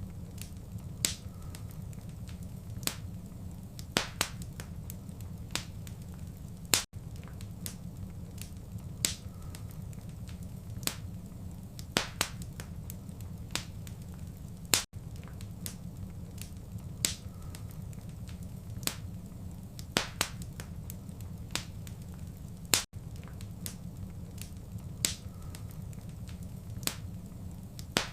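Wood fire crackling in a fireplace: sharp pops and snaps at irregular intervals, about one a second, over a steady low rumble of the flames. A brief dropout comes about every eight seconds where the looped recording repeats.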